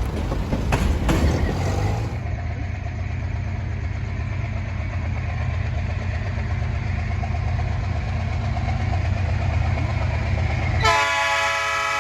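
Diesel freight train passing: sharp wheel clicks over the rails at first, then a steady low rumble. About eleven seconds in, a locomotive air horn sounds several tones at once and keeps blowing.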